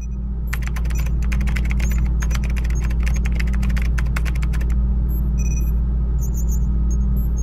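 Typing sound effect: a rapid run of keyboard clicks for about four seconds, then a few scattered clicks. Under it runs a loud, steady low drone.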